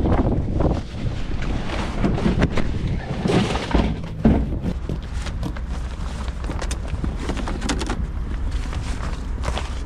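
Strong wind buffeting the microphone with a low rumble, under scattered short clicks and rattles and one sharp thump about four seconds in.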